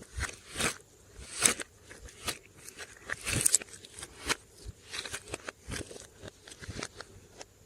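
Glossy slime being squished and kneaded by hand, giving irregular wet clicks, pops and crackles, several a second.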